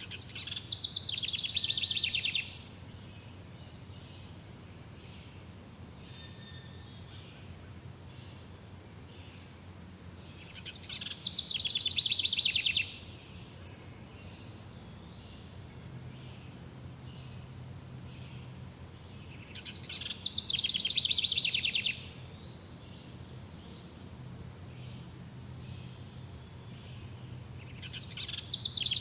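A songbird repeating one loud, rapid trilled phrase about two seconds long, four times at roughly nine-second intervals, each phrase swelling in loudness. Between phrases, faint chirps over steady outdoor background noise.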